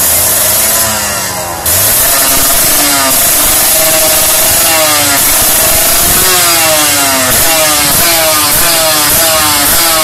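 Kawasaki Ninja R's two-stroke engine revving loudly through a Cream-Pie aftermarket exhaust. It gives repeated throttle blips whose pitch falls after each one, coming faster, about two a second, in the second half.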